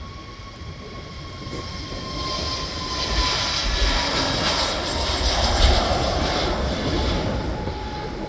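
Jet airliner taking off, its engine noise building over the first few seconds to a peak around five to six seconds in, with a thin whine that falls slowly in pitch as it passes.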